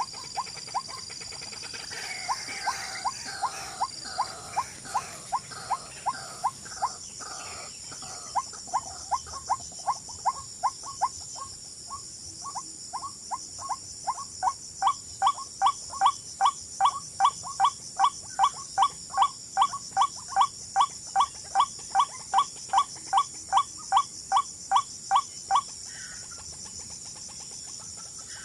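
An animal call, a short upward-sweeping note, repeated evenly about two or three times a second. It grows louder and fuller about halfway through and stops a few seconds before the end, over a steady high-pitched whine.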